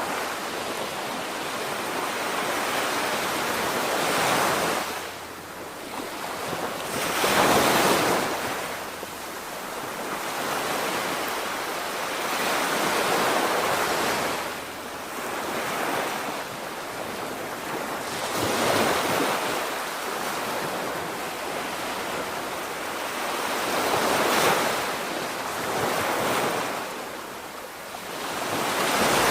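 Sea waves breaking on the shore in repeated swells, one about every five or six seconds, with wind buffeting the microphone.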